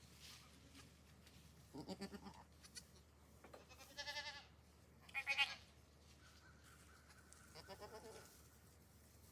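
Goats bleating: four separate wavering calls, the first lower-pitched and the later ones higher, with the loudest about five seconds in.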